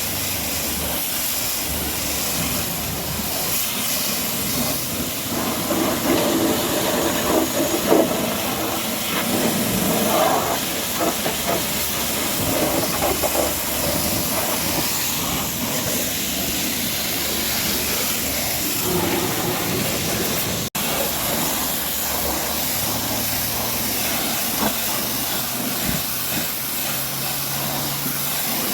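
High-pressure washer spray hissing steadily against the truck's body, with a momentary break about two-thirds of the way through.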